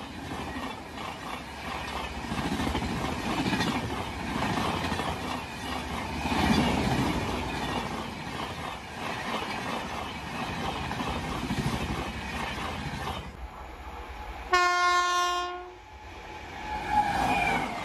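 Express train of red-and-grey passenger coaches running past at speed, wheels clattering rhythmically over the rail joints. After a short break, an electric locomotive's horn gives one steady blast of about a second, and a brief falling horn-like tone follows near the end.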